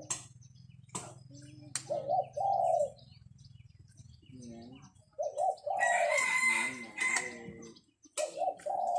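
Decoy doves cooing: short, low, rounded coo phrases repeat about every three seconds. Sharp clicks fall between the phrases, and a burst of higher chirping noise comes about six seconds in.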